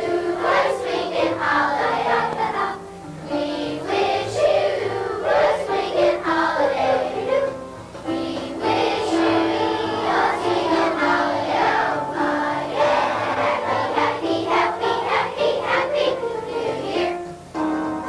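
A choir of elementary-school children singing a Christmas song with instrumental accompaniment, in phrases with brief breaths between them.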